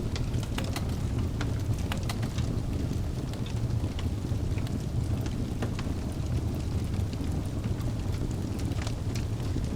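Wood fire burning in a fireplace: a steady low rumble of flames with scattered crackles and pops from the burning logs, coming thickest in the first couple of seconds and again near the end.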